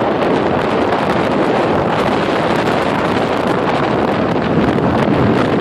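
Wind buffeting the microphone: a loud, steady rushing roar with no calls or knocks standing out.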